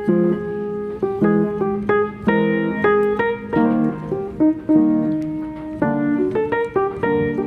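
Background piano music: gentle notes and chords played at an even pace.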